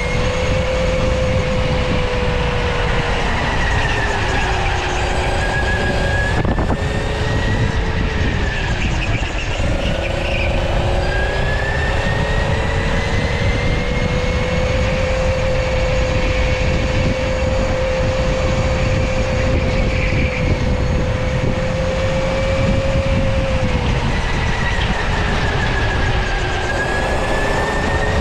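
Electric go-kart motor whining, its pitch rising and falling again and again as the kart speeds up and slows for corners, with a heavy low rumble underneath.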